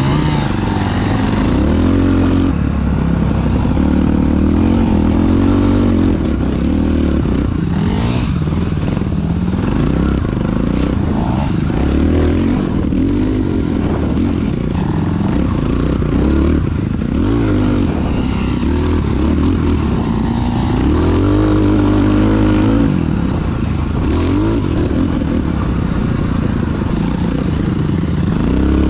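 Dirt bike engine being ridden, revving up and dropping back again and again as the rider accelerates and eases off.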